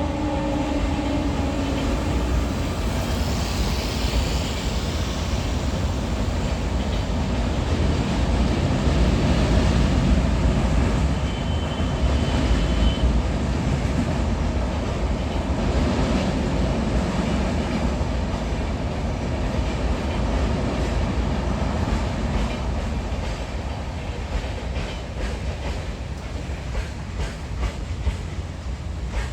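Freight train rolling past: a dense, steady rumble of wagons on the rails. The horn sounding before it dies away in the first second or two, and a rhythmic clickety-clack of wheels over rail joints comes through near the end.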